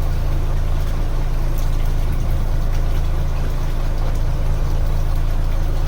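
Fishing boat's engine running steadily at idle, a low even hum.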